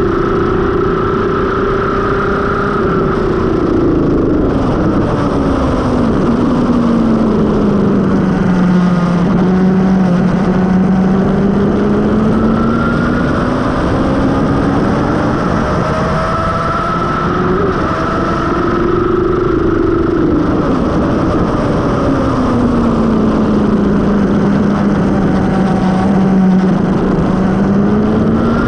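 Suzuki GSX-R750 K5's inline-four engine with a Mivv carbon exhaust, heard from on board at speed over a steady rushing noise. Its pitch sinks smoothly and climbs again twice as the revs fall and build.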